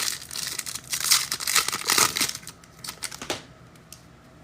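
Foil trading-card pack wrapper crinkling and tearing as it is ripped open by hand, busy for the first two and a half seconds, then quieter apart from a brief rustle a little after three seconds.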